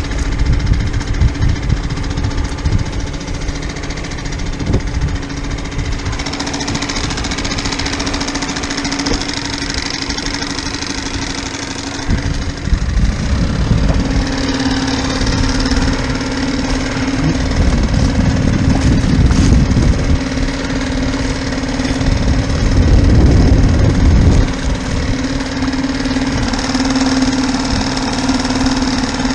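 Boat engine running steadily, a constant low hum with rumble and hiss around it.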